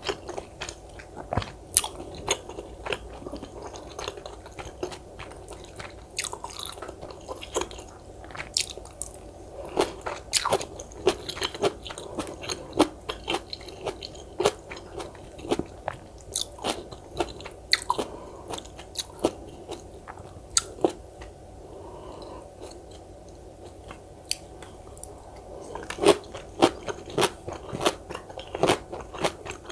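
Close-miked eating: chewing with crisp, crunchy bites of kkakdugi (cubed radish kimchi). The crunches come thicker near the end.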